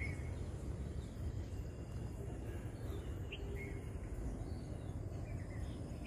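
A few short, high bird chirps over a steady low rumble of outdoor background noise.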